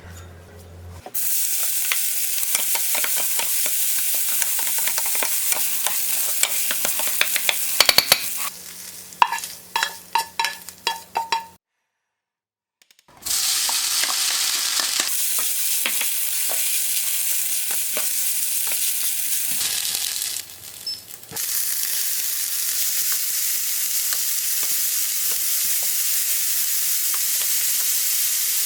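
Ingredients sizzling in a hot frying pan in long steady stretches, with a cooking utensil clinking and scraping against the pan for a few seconds in the middle.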